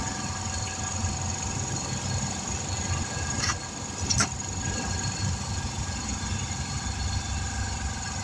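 An engine running steadily at idle, with two short sharp clicks a little under halfway through.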